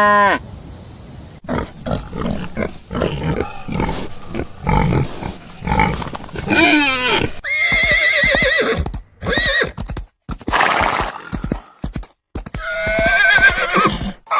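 Horse neighing: a few separate whinnies with a quavering pitch in the second half, after a run of shorter noisy sounds.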